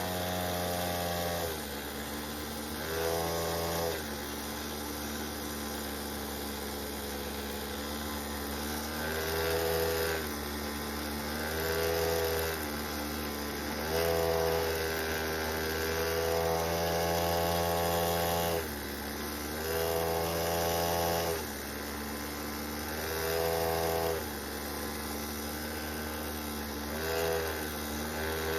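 Mini bike's small engine pulling the bike along, revving up and easing off again and again as the rider opens and closes the throttle, with a steady rush of wind underneath.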